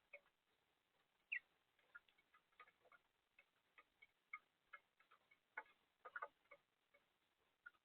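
House finches at a seed feeder: faint, irregular clicks and ticks, several a second, with one short chirp about a second in.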